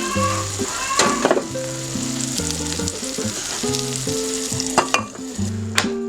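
Food sizzling as it fries in a pan, with stirring and a few sharp clicks of a utensil against the pan. A gentle melody plays underneath.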